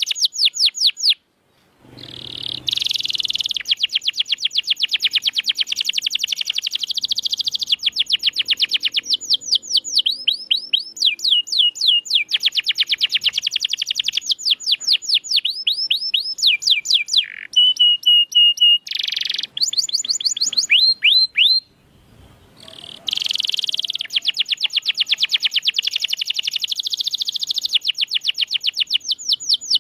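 Domestic canary singing long, fast rolling trills of rapidly repeated high notes, with one held steady note partway through and brief pauses about a second and a half in and again about 22 seconds in.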